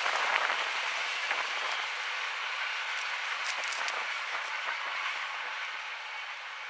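Train wheels on the rails just after the train has gone by, a hissing rumble with a few clicks that fades steadily as the train moves away.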